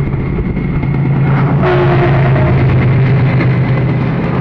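Train running at night while an oncoming train passes close on the next track: a steady low drone, then about a second and a half in a sudden loud rush of wheel and air noise as the other train draws level.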